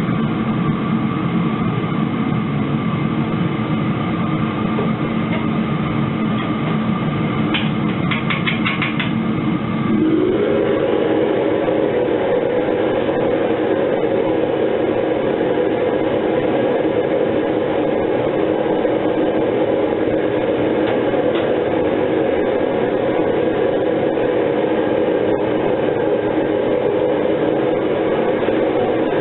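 Metal-melting furnace burner and its blower running with a steady roar; about ten seconds in the hum glides up in pitch and then holds steady and louder.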